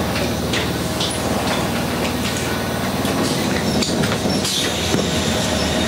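Electric train car's steady low hum heard inside the car, with a few footsteps and knocks as someone walks across the car floor.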